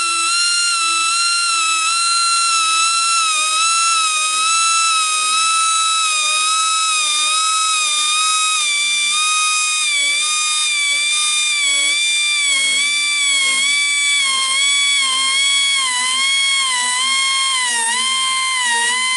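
Air grinder running with a high, steady whine as it sharpens the back of a sawmill band blade's teeth. Its pitch sags and wavers as it bears against the steel, more so near the end.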